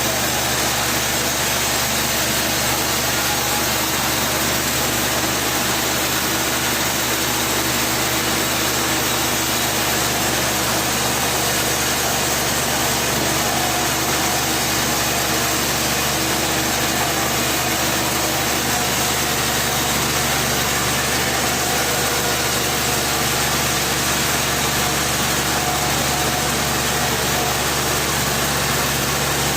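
An engine running steadily at an even speed, with a constant hum and no changes in level.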